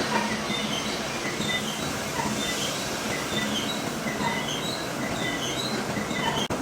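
Metalworking machine running steadily in a machine shop, with short high-pitched metallic squeals coming and going every second or so over a low hum.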